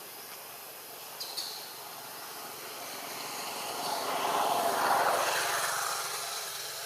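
A vehicle passing by: its noise swells, peaks about five seconds in, then fades.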